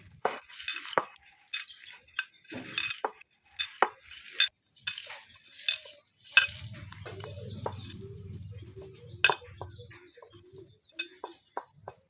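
Metal utensils clinking and scraping against cookware in a string of sharp knocks while food is stirred and mixed, with a steady low rumble for a few seconds in the middle.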